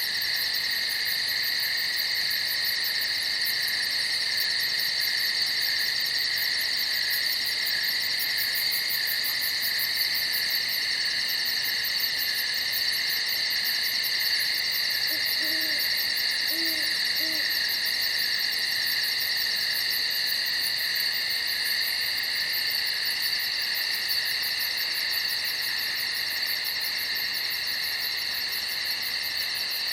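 Night chorus of crickets chirping in a dense, unbroken trill. Three faint, short, low calls come about halfway through.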